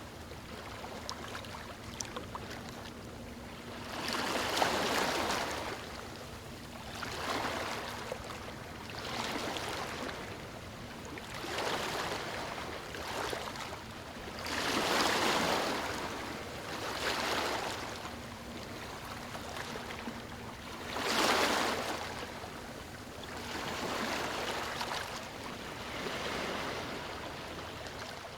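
Water splashing and washing in repeated surges, swelling and falling back every two to three seconds over a steady rushing background.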